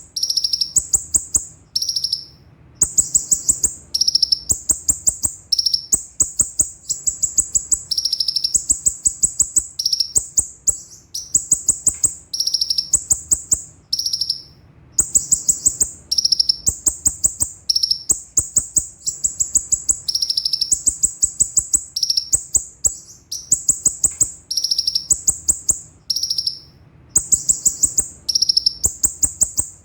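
Kolibri ninja (konin) sunbird singing a fast, high-pitched song: rapid runs of sharp chips that switch back and forth between a higher and a lower pitch, in bursts of a second or two with short breaks between them.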